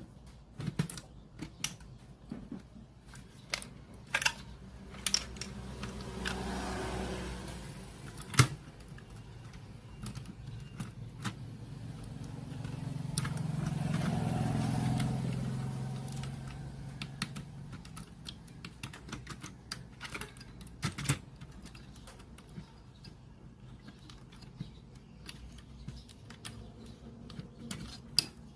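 Scattered small clicks, taps and light rattles of hands and small tools handling the parts of a portable radio cassette player, with two slow swells of low rumbling noise that rise and fade, about six and fourteen seconds in.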